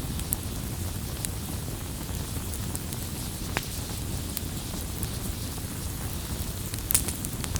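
A wood campfire burning, with a steady low rush from the flames and scattered sharp crackling pops. The loudest pop comes near the end.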